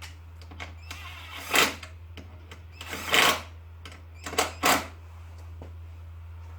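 Bolts being fastened back onto a small generator engine with a hand tool: four short bursts of tool noise over a steady low hum.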